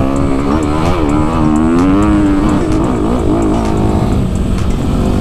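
Honda CRF250RX dirt bike's single-cylinder four-stroke engine running under changing throttle, its pitch rising and falling again and again as the rider accelerates and backs off.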